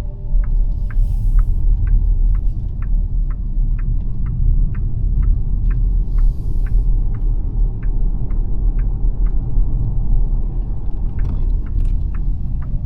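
Cabin road and tyre rumble of the dual-motor electric XPENG G9 SUV while driving, with no engine note. Over it, a turn-signal indicator ticks evenly about two and a half times a second.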